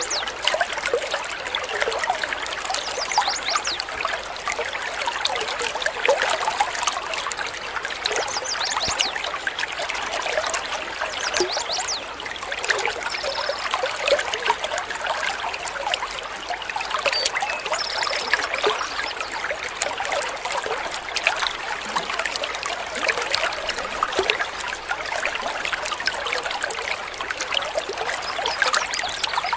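Running water trickling and splashing over stones in a steady, even burble. A few short, high bird calls break through now and then.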